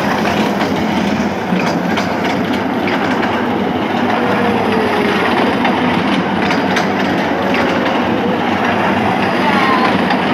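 Ride-on toy train running with a steady, even noise, with faint voices over it.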